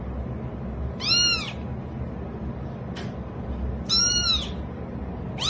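Cat giving short high-pitched meows, each rising then falling in pitch: two about three seconds apart, and a third starting near the end, over a steady low background rumble.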